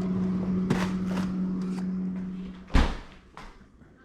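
A steady hum with scattered clicks and knocks, then a loud slam as something is shut, about three seconds in. The hum stops at the slam.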